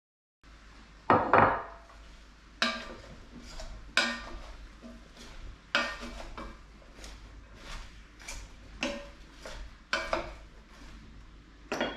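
A utensil knocking and scraping against a deep cast iron pot: a long run of sharp clanks, roughly one or two a second, some ringing briefly.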